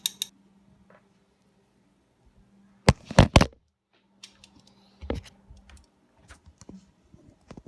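Scattered light clicks and taps, with a brief cluster of loud knocks about three seconds in, over a faint steady hum.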